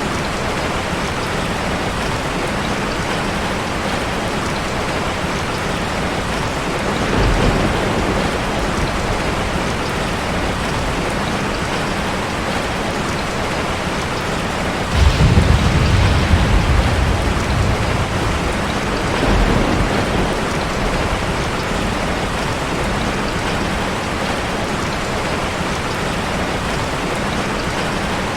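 Steady rushing water, a waterfall, forming a dense even hiss. Three deep rumbles rise out of it: a short one about a quarter of the way in, a louder one lasting a few seconds just past halfway, and a short one soon after.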